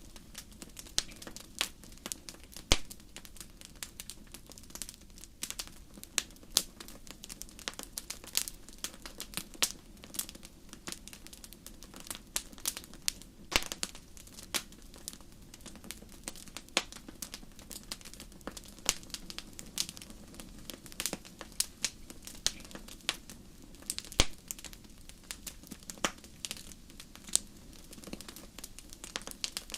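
Wood fire in a fireplace crackling, with frequent irregular sharp pops and snaps over a steady low rush of burning. Two pops, a few seconds in and near the end, stand out as the loudest.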